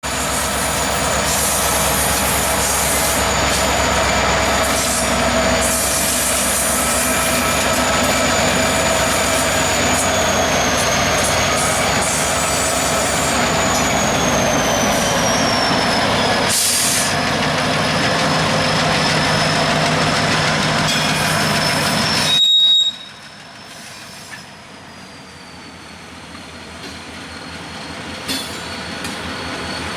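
Freight train rolling on steel rails with a high wheel squeal that glides slowly down in pitch. About 23 seconds in the loudness drops sharply, leaving a quieter rolling sound and a fainter squeal.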